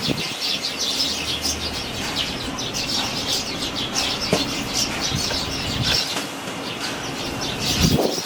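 Fledgling sparrows chirping, many quick high chirps in a steady stream, over strong wind rumbling on the microphone.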